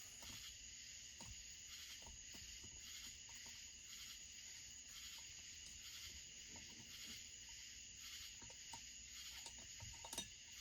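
Near silence: a faint steady high hiss, with a few faint light clicks scattered through and one slightly stronger click near the end.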